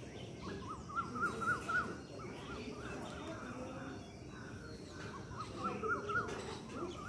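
A bird calling twice, each time a quick run of short rising notes, over a steady low background rumble.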